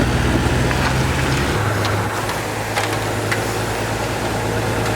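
A motor vehicle's engine running steadily with road noise, its low hum shifting to a different pitch about a second and a half in.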